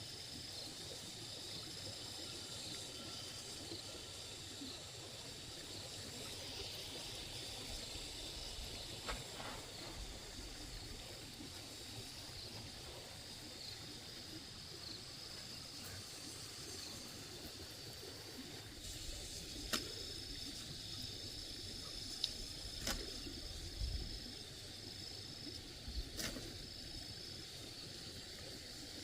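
Outdoor rural ambience: a steady thin high-pitched chirring with a few scattered knocks and clicks.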